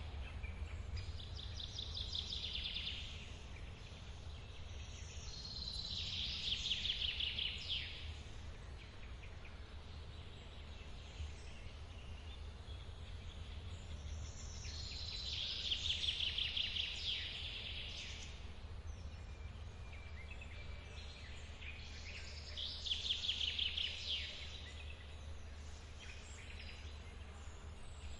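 Steady rush of a forest waterfall, under a bird singing a short rapid trill, repeated four times about every seven to eight seconds.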